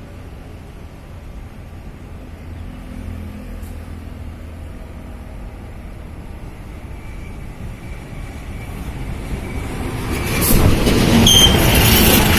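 A train approaching and passing close by: a low rumble building slowly over about ten seconds, then a loud rush near the end as it goes past.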